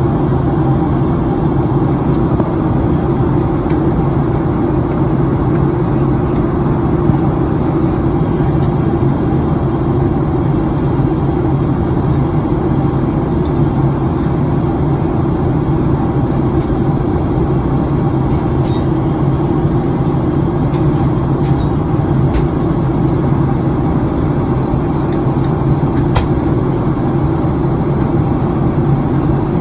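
Steady cabin noise inside a Boeing 737-900ER on descent: the low rumble of its CFM56 jet engines and the rush of air along the fuselage, even and unbroken.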